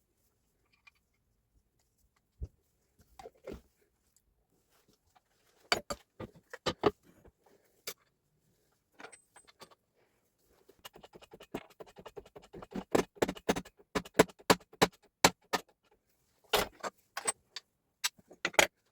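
Metal parts and hand tools clinking and knocking during the strip-down or rebuild of a Hilti TE 905 breaker: scattered sharp clicks, then a quick run of clicks through the middle and another cluster near the end.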